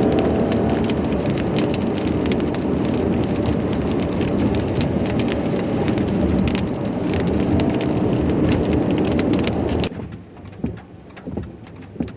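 Car driving, with steady road and engine noise heard from inside and many scattered ticks. The noise cuts off suddenly about ten seconds in, leaving only faint ticks.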